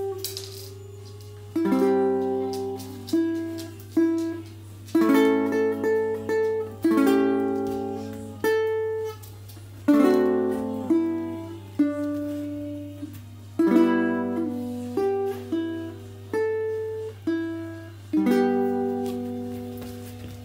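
Tenor ukulele tuned to baritone DGBE with a high (reentrant) D string, played as a run of plucked chords and single picked notes, each ringing out and dying away.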